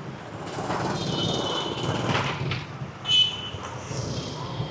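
City street traffic: a motor vehicle passing, its noise swelling and fading, with a brief high steady tone and a loud peak about three seconds in.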